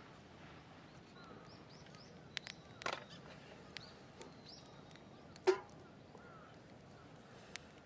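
A few sharp knocks and clicks, scattered and irregular, the loudest about five and a half seconds in with a short ring, over faint chirping birdsong.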